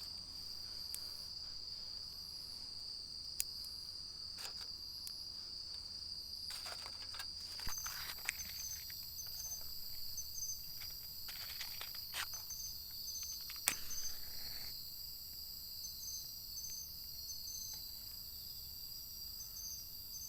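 Steady high-pitched chorus of insects, crickets among them, with a second insect adding short repeated chirps from about eight seconds in. Scattered small clicks and knocks sound over it.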